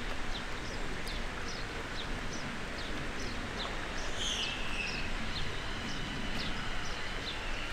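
A small bird chirping repeatedly, short high chirps roughly every half second, over a steady background hiss.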